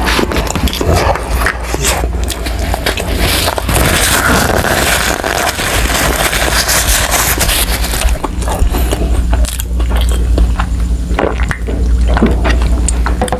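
Close-miked chewing of soft adobo-braised tuna roe, with wet mouth clicks and lip smacks over a steady low hum. A paper tissue rustles at the nose around the middle, and he drinks from a bottle near the end.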